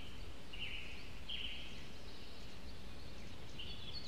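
Songbirds chirping: a few short chirps in the first second and a half, then a busier run of twittering starting near the end, over a steady low background hum.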